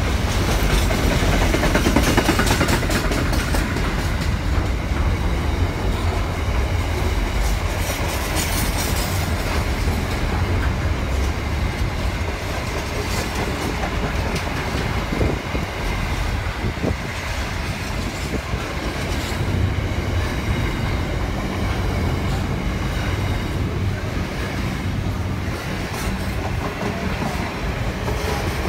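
Container wagons of a long intermodal freight train rolling past: a steady rumble of steel wheels on the rails with repeated clickety-clack over the rail joints.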